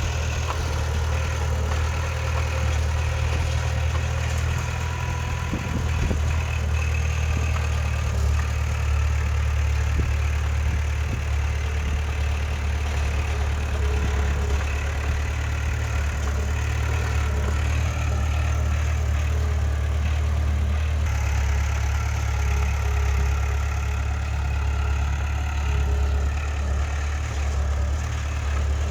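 Heavy earthmoving machine's diesel engine running steadily with a low drone, with a few faint knocks over it.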